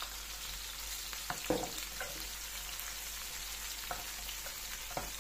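Chopped capia and green peppers sizzling steadily in hot olive oil in a pot, with a few light knocks as the green peppers are tipped in from a bowl and stirred with a wooden spoon.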